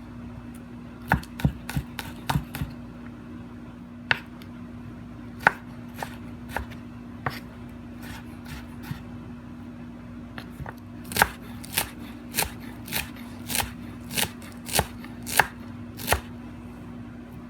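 Knife chopping on a cutting board: scattered knocks at first, then a steadier run of strokes about one and a half a second in the second half, over a steady low hum.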